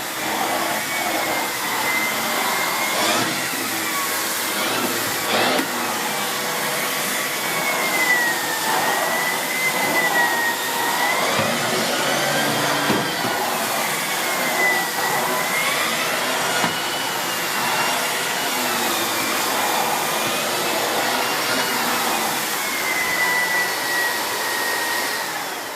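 Miele S8730 (C3 Complete) cylinder vacuum cleaner running with its turbo brush head, a whine wavering up and down in pitch over the rushing air. It winds down near the end.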